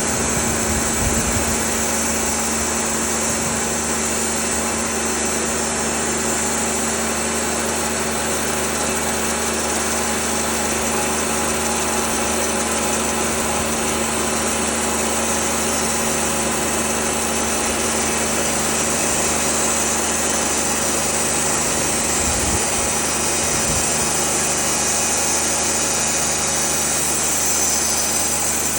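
Engine-driven sawmill running steadily under power, a constant engine drone with a strong high hiss over it.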